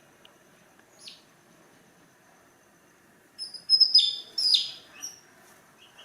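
Bird chirps: one short high chirp about a second in, then a louder run of quick, falling chirps around the middle.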